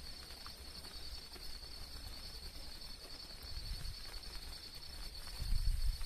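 Steady, high-pitched, evenly pulsing insect chorus, with low rumbles swelling near the end.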